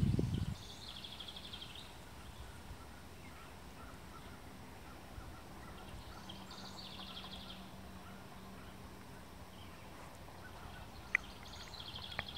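A small bird sings a short, high, fast trill three times, roughly every five to six seconds, over faint outdoor background noise; a single sharp click comes near the end.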